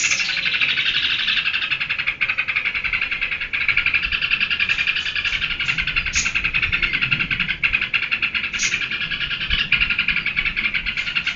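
Yellow-vented bulbul (trucukan) in full energetic song: a rapid, unbroken chattering run of notes with a few brief breaks and some sharp high notes in between.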